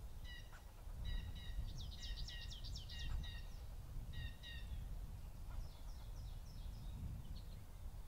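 Wild songbirds calling: short repeated call notes, a quick run of falling notes about two seconds in and a softer run past the middle, over a steady low rumble.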